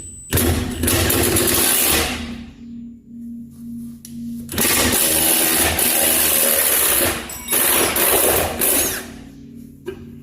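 Impact wrench hammering on a rear-suspension bolt of a 1971 Chevy pickup in two long bursts, the second about twice as long as the first, working the tight bolt loose.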